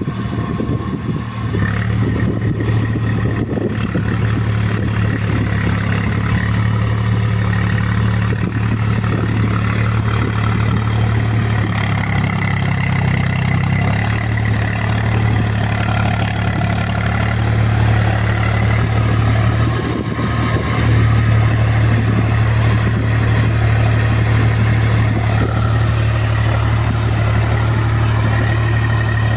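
Swaraj 735 FE tractor's three-cylinder diesel engine running steadily under load as it pulls full cage wheels through soft paddy mud. The engine note shifts briefly about halfway through and dips for a moment later on.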